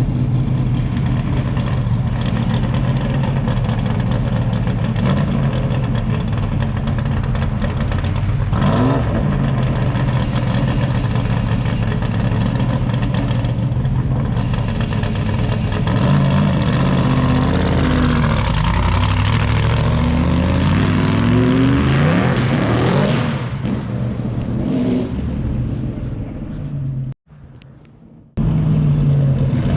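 1969 Corvette C3's V8 engine running under way on its first drive after a new engine install, revving up and easing off several times, with the sharpest rises about a third of the way in and again past the middle. The sound breaks off briefly near the end, then resumes.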